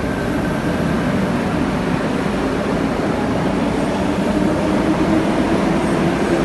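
Electric suburban train running at an underground station platform: a steady rumble with a faint hum, growing a little louder toward the end.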